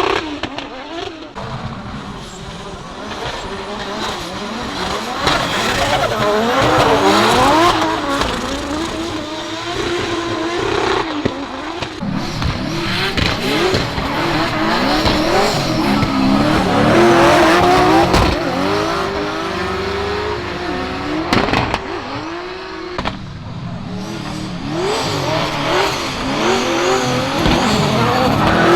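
Drift cars at speed on a wet circuit, engines revving up and down over and over as the drivers work the throttle through slides, with tyre noise. The cars are loudest about a quarter of the way in, just past halfway, and again near the end.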